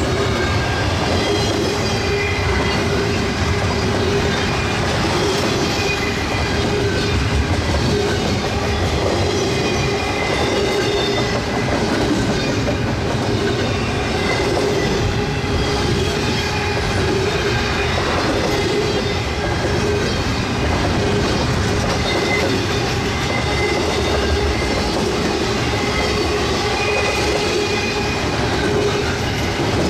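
Double-stack intermodal freight cars rolling past close by, steel wheels clattering steadily over the rail joints, with a steady hum running under the rumble.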